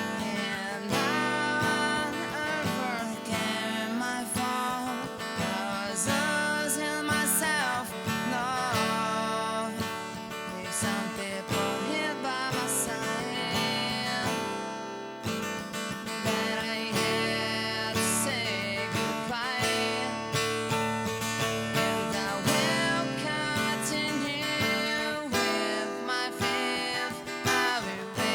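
Music: strummed acoustic guitar in an instrumental passage without singing.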